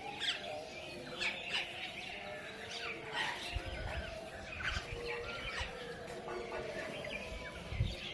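Many birds calling and chirping at once, short overlapping calls and quick sweeps from a flock gathered close by.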